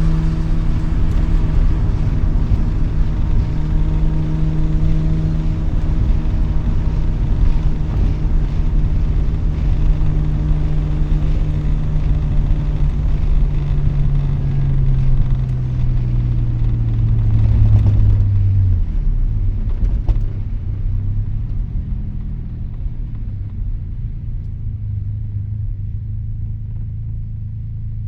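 Mazda RX-7 rotary engine through an RE Amemiya Dolphin Tail 90 Curl exhaust, heard from inside the cabin with the windows down, cruising with a steady drone over road noise. Past the middle the pitch falls as the car slows. It then settles into a lower, quieter, steady rumble near the end.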